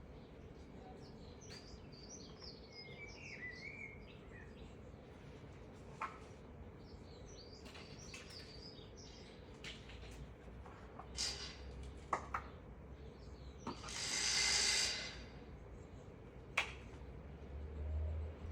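Small birds chirping in short bursts over a faint low hum, with a few scattered clicks and a brief hiss of about a second and a half near the three-quarter mark.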